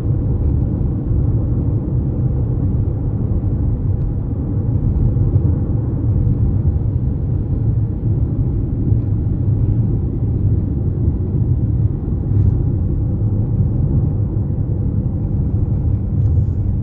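Steady low rumble of a car driving on the road, tyre and engine noise heard from inside the cabin.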